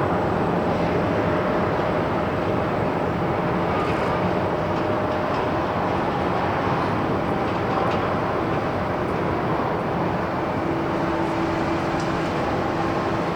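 Jet airliner engine noise at an airport: a steady, even rush with faint whining tones in it.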